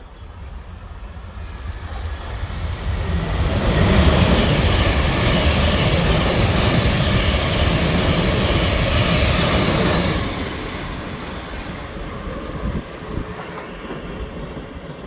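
A train passing on the main line: its rumble and rail noise build over the first few seconds, stay loud for about six seconds, then drop away suddenly about ten seconds in.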